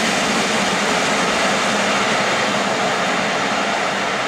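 Freight train of flat wagons loaded with steel rolling away along the line: a loud, steady rush of wheels on rail with no clear beat.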